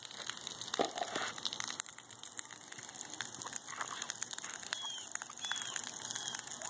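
Rain falling: a steady hiss of patter with many small drop clicks. Near the end a bird chirps a few times, short high notes.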